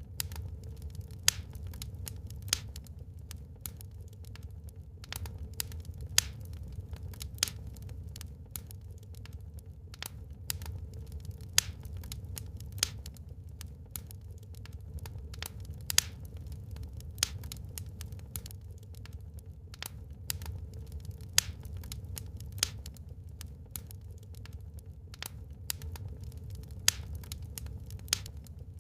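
Burning wood fire crackling: sharp irregular pops and snaps, several every few seconds, over a steady low rumble.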